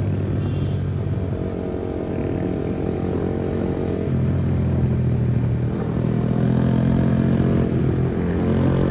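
Kawasaki ZX-10R's inline-four engine running under way at a fairly steady pitch. The note changes about four seconds in and gets a little louder.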